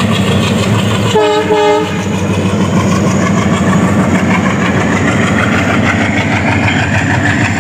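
Diesel locomotive hauling a passenger train past, its engine and the wheels on the rails making a loud steady rumble, with two short horn blasts about a second in.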